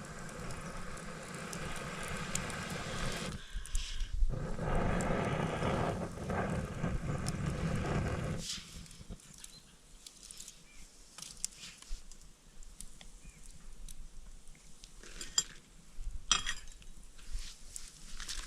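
A rushing noise lasting about eight seconds, broken briefly after about three and a half seconds, then a campfire crackling with scattered small clicks and knocks.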